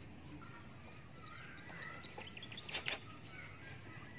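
Birds chirping and calling, short varied notes throughout. A brief, loud noise comes a little before three seconds in.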